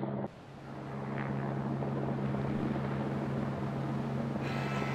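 Helicopter sound effect: a steady low engine-and-rotor drone that drops out briefly just after the start and swells back within about a second, with a hiss added near the end.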